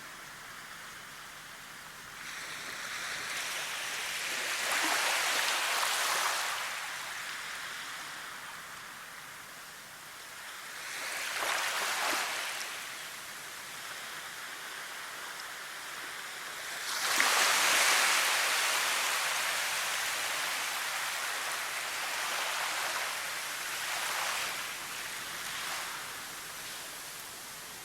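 Waves washing on a shore: water noise swelling and falling back, with three bigger surges a few seconds apart, the loudest near the middle.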